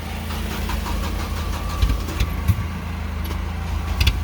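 Car engine running at a steady idle, with a few short knocks.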